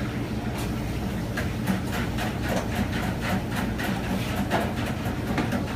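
Steady low hum with irregular clattering clicks and knocks, a few a second.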